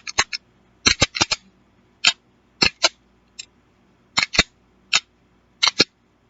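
Taurus G2S 9mm pistol's slide and striker-fired trigger being worked after reassembly: a string of sharp metallic clicks, some in quick pairs and triples, from a function check of the trigger reset.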